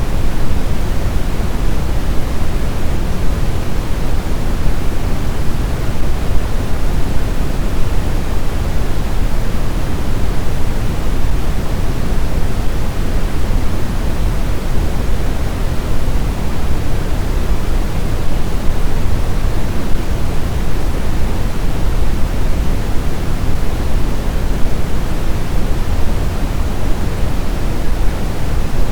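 Steady blizzard wind noise: an even, deep rush, heaviest in the low end, with no gusts or whistling.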